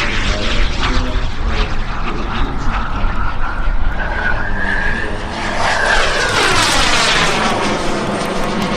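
Gas turbine of a large radio-controlled model jet (Carf Mephisto V2) whining as the jet flies past, its pitch rising and then falling as it passes close by in the second half. Wind gusts buffet the microphone underneath.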